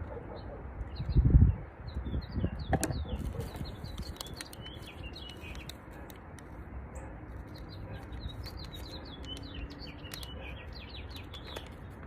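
Small birds chirping over and over, short high notes. About a second in there is a brief, loud, low rumble, followed by a few clicks and rustles.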